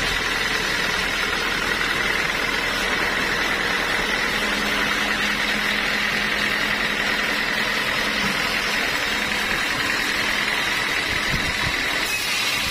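Sawmill machinery running steadily: a continuous mechanical noise with a faint, even high whine throughout.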